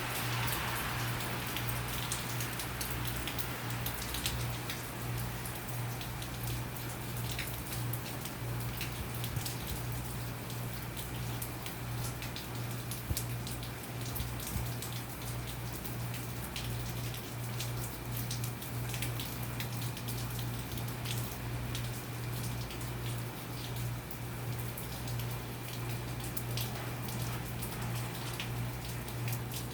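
Hurricane rain falling steadily, with many separate drops ticking sharply on a nearby surface, over a steady low hum.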